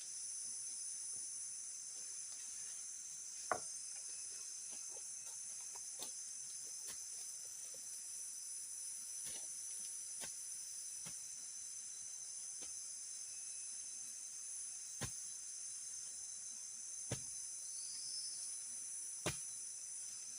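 Steady high-pitched chorus of forest insects, with a sharp knock every two or three seconds, like wood being struck or chopped.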